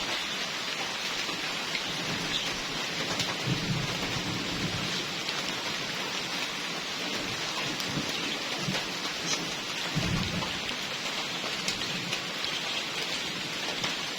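Steady heavy rain falling and pattering on surfaces, with scattered drop clicks and a few low rumbles of thunder.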